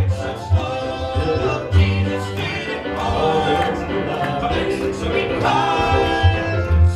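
Southern gospel music: voices singing in harmony over a band with a steady, prominent bass.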